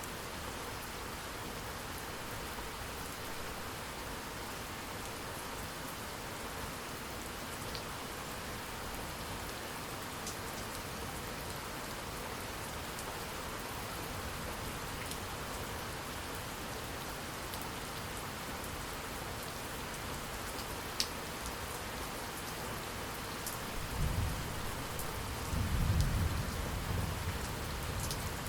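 Steady rainfall with scattered drops ticking on surfaces. About 24 seconds in, a roll of thunder rumbles low for several seconds, loudest near the end.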